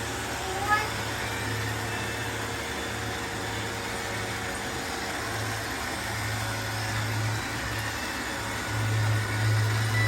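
Robot vacuum cleaners running: a steady motor and suction hiss over a low hum that swells and fades every few seconds. A short sharp tap comes about a second in.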